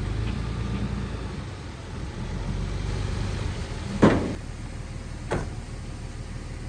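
Diesel engine of heavy earthmoving equipment running low and steady. About four seconds in there is a loud sharp clank, and a second, weaker one follows just over a second later.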